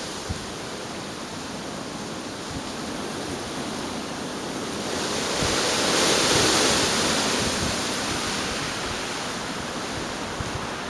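Gale-force storm wind blowing hard, swelling into a stronger gust about halfway through and then easing off.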